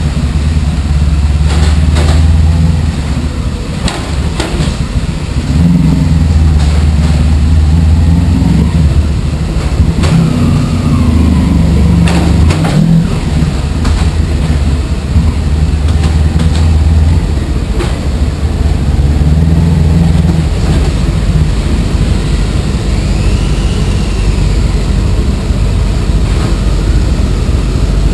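Honda ST1100 Pan European's V4 engine running at low speed inside the shuttle carriage, the throttle opened and eased off in turns as the bike moves through the carriages. After about twenty seconds it settles to a steadier, lower run.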